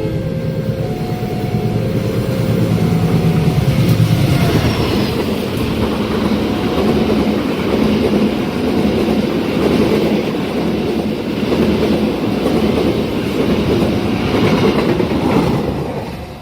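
Long Indonesian train passing over a level crossing. The locomotive's engine is loudest about four seconds in, followed by the steady rattle and clack of the carriages' wheels on the rails, with the crossing's warning tones repeating faintly underneath.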